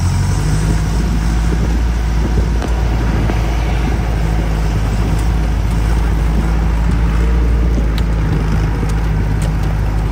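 Off-road 4x4's engine running steadily as it drives, a loud, even low rumble.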